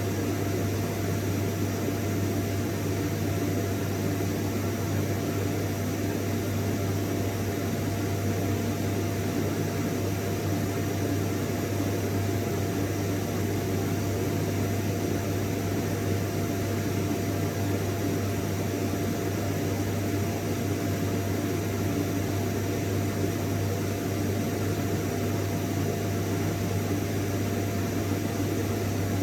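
Vacuum cleaner running steadily, a constant airy noise over a deep hum, with a faint thin whine above it.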